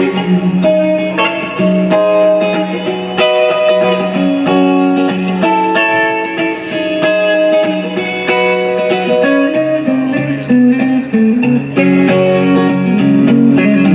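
Live guitar playing an instrumental passage: a melody of individually plucked notes over held lower notes.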